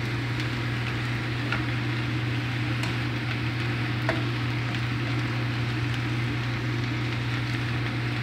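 Sliced onion and carrot frying in butter and a splash of soy sauce in a nonstick pan, sizzling steadily while a plastic spatula stirs them with a few light scrapes and taps. A steady low hum runs underneath.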